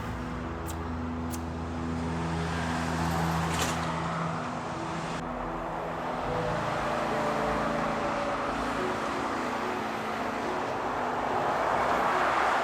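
Road traffic noise: a steady rushing hiss of vehicles that swells near the end as one passes close by.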